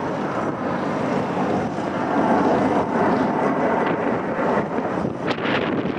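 Boeing C-17 Globemaster's four turbofan engines giving off a steady jet noise in flight. Wind gusts buffet the microphone in the last second or so.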